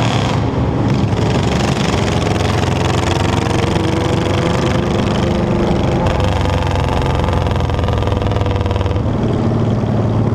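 Motorcycle engine running steadily, its pitch shifting slowly up and down a few times.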